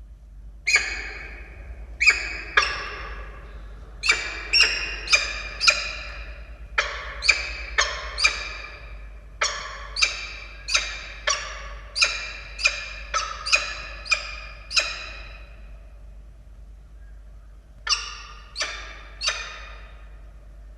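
Peregrine falcon calling: a long run of short, harsh calls at about two a second, a pause, then three more near the end.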